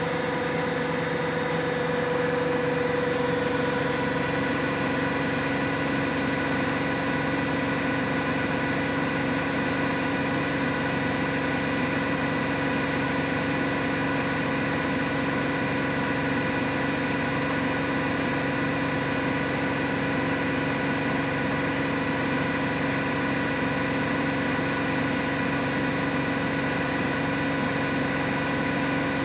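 Miele Novotronic W822 front-loading washing machine in its final spin, the drum turning at a steady high speed with a steady motor whine over the rumble of the spin.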